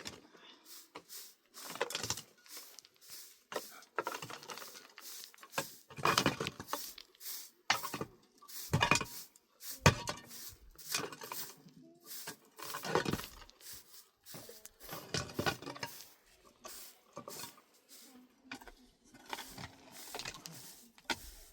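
Irregular knocks and clatter of hard objects being handled, spaced unevenly throughout.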